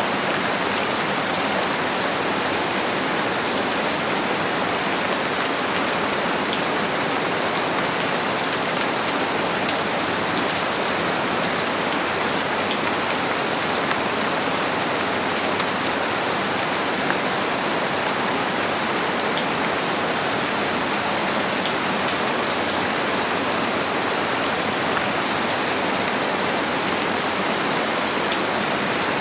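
Steady heavy rain falling, a dense even hiss with countless fine drop patters and no thunder.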